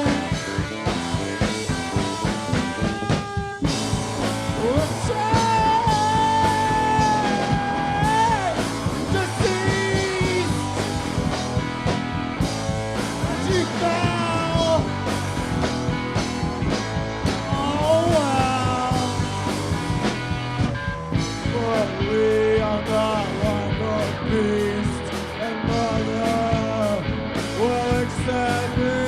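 Live rock band playing, with electric guitar and a steady beat, and a pitched lead line that slides and bends in pitch.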